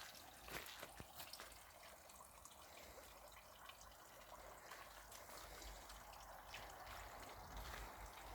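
Faint steady trickle and splash of water falling down a three-tier garden water cascade, with a few sharp drip-like ticks in the first second.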